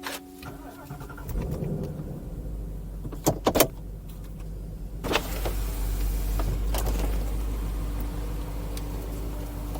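Power convertible top of a 2019 Ford Mustang GT convertible being lowered: an electric motor running over the car's low hum, with a few sharp clicks about three and a half seconds in, then a steadier whir with hiss from about halfway through.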